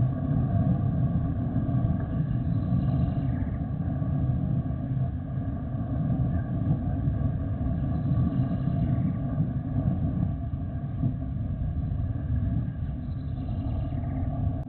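Jet aircraft engines, a steady low rumble with a faint steady whine above it.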